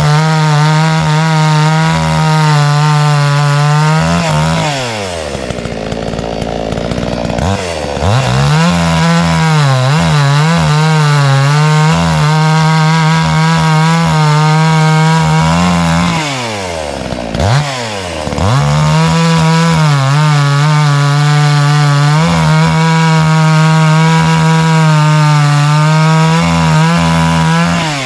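Gas two-stroke chainsaw (about 60 cc) running at high revs while cutting wood. Twice, about five seconds in and again about seventeen seconds in, the revs drop sharply and then climb back to full speed.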